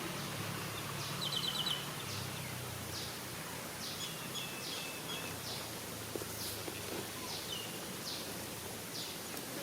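Outdoor ambience with birds chirping: short high chirps repeating every half second or so, with a quick run of about five ticks a little over a second in. A low hum fades out in the first two seconds.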